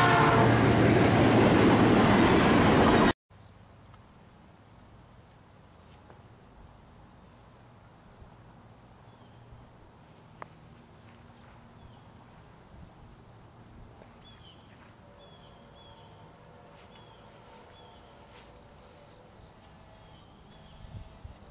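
A diesel freight train rushes past close by, locomotive and hopper cars rolling on the rails, and cuts off abruptly about three seconds in. Then comes steady, quiet insect chirring with a few faint chirps.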